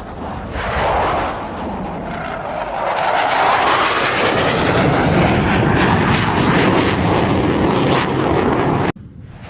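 Aircraft engines running loud, a dense rushing noise that swells over the first few seconds and holds, then cuts off abruptly near the end.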